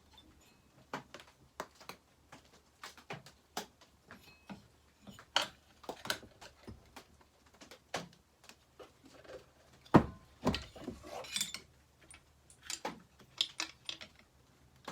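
Irregular small clicks and clinks of metal chainsaw parts and hand tools being handled during reassembly, with a sharper knock about ten seconds in.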